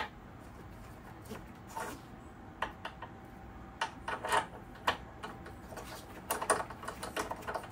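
Irregular light clicks and taps of small tools and parts being handled, some in quick clusters, over a low steady background.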